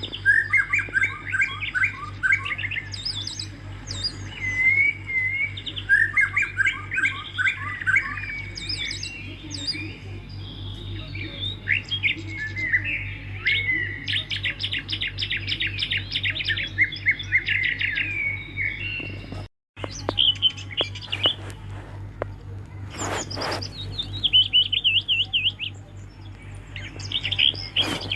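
Swiftlets twittering: rapid, repeated chirps and trills, over a steady low electrical hum.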